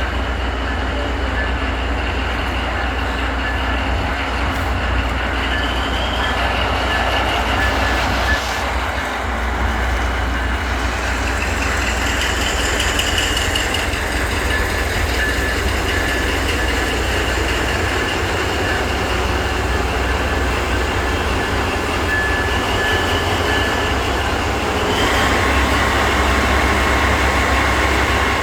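Amtrak passenger train running with a steady low rumble and thin high-pitched tones over it; the high part grows louder near the end.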